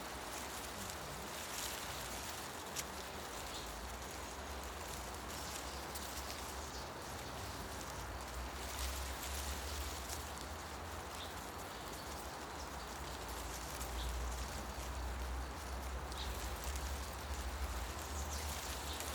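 Forest ambience: wind rustling through tree leaves as a steady hiss, with a low rumble that swells from about the middle onward and a few faint, short bird chirps.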